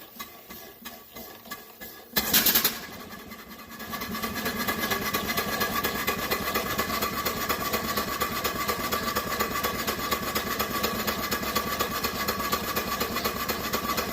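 Steam engine: a short loud burst of hissing about two seconds in, then from about four seconds it runs with a steady, fast, even beat.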